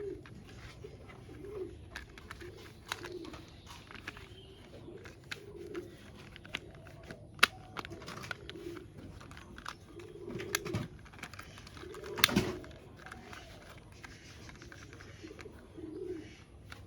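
Pigeons cooing repeatedly in low, rounded calls, with scattered sharp clicks and knocks; the loudest clicks come about seven and twelve seconds in.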